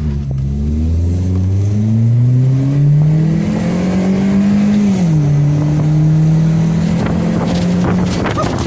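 Car engine revved hard through a freshly cut exhaust: the pitch climbs steadily for about five seconds, dips, holds high for a few seconds, then falls away near the end.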